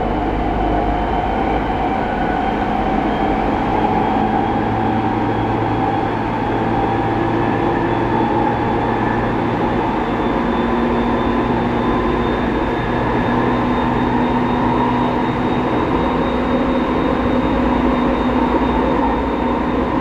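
Running noise inside a Tokyo Waterfront Area Rapid Transit 70-000 series electric train under way: a steady wheel-and-rail rumble with faint motor tones drifting slowly in pitch.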